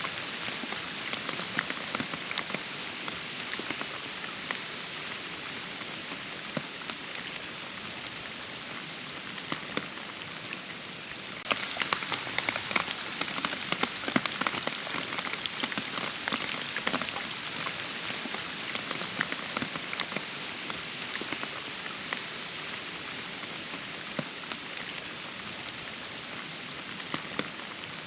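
Steady rain falling, with many individual drops pattering close by. About a third of the way in, the rain gets louder and denser for several seconds, then eases back to a steady fall.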